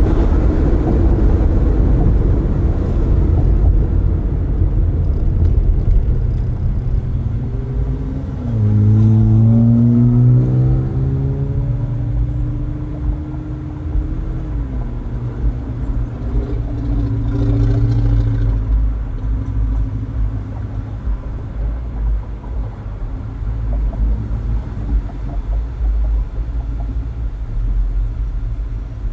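Car driving with the windows open: steady road and tyre rumble, with an engine's pitch rising as a vehicle accelerates about eight seconds in, dropping back a few seconds later, and rising again briefly near the middle.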